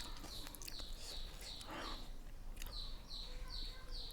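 A small bird calling over and over in the background: short high chirps, each falling in pitch, about two or three a second, with a few soft clicks mixed in.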